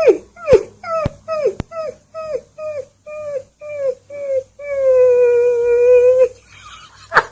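A dog giving a rapid series of short cries, each falling in pitch, about three a second, then one long, steady cry.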